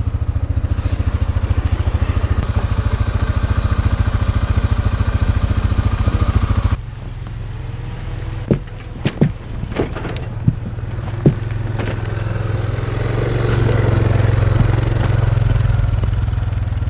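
Off-road vehicle engine running with a fast, even pulse; about seven seconds in the sound changes to a lower, steadier engine drone with a few sharp knocks, and the drone swells slightly near the end.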